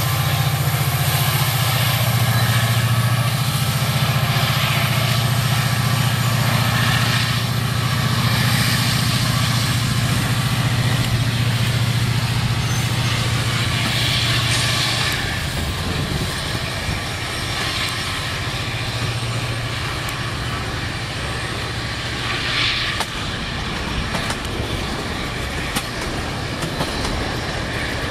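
Diesel freight locomotive passing close by, its engine giving a steady low rumble that fades about halfway through. The rolling noise of the freight cars going by follows, with scattered clicks and clanks of wheels on the rails near the end.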